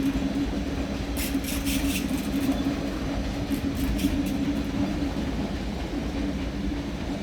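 ICE-T class 411 electric multiple unit moving slowly into the station with a steady electric hum. A short run of high clicks comes about a second in.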